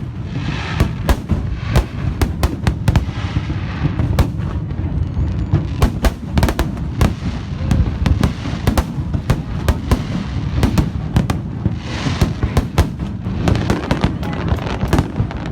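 Fireworks display: a rapid, unbroken series of sharp bangs over a constant low rumble of booms, with patches of crackling near the start and again about twelve seconds in.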